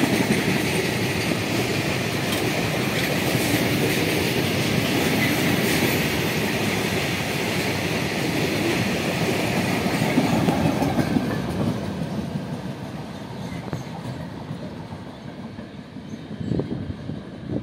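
Covered freight wagons of a long goods train rolling past at speed, a steady rumble and clatter of steel wheels on the rails. The sound fades from about eleven seconds in as the last wagons draw away, with a few low thumps near the end.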